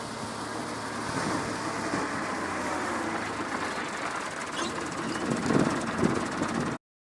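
Tractor running, a steady mechanical noise with a few louder low knocks near the end, cutting off suddenly.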